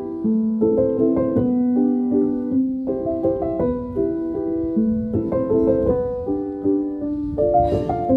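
Background piano music: a gentle melody of separate notes over repeated chords.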